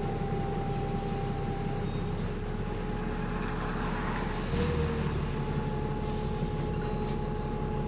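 A bus's engine running steadily, heard on board, as a continuous drone with a steady whine over it; the drone swells briefly about halfway through. The bus has an exhaust leak.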